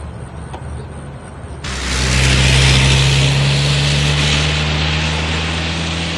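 An engine running with a loud rushing noise that cuts in suddenly a little under two seconds in. Its low hum rises slightly in pitch.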